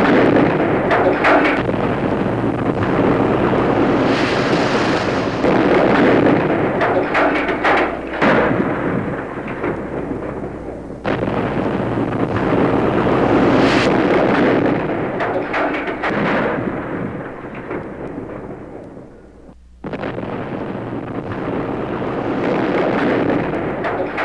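Harsh noise music: a dense, loud, rumbling roar like thunder or massed explosions. It changes abruptly about 8 and 11 seconds in, thins out, drops away briefly near 20 seconds and then starts again at full strength.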